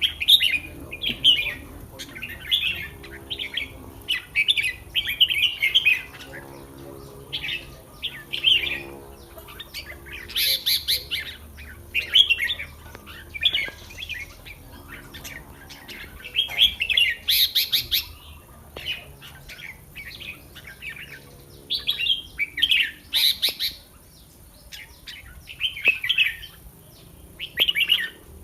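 Caged red-whiskered bulbuls singing: short, bright chattering phrases repeated every second or two, with a few brief pauses between bouts.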